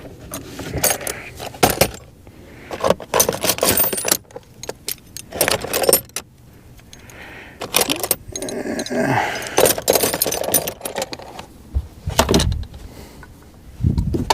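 Metal sockets and small hand tools clinking and rattling in irregular bursts as they are handled and picked through.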